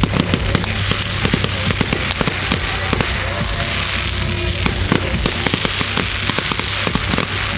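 Fireworks going off: a dense run of sharp cracks and bangs at irregular intervals, several a second, over music playing in the background.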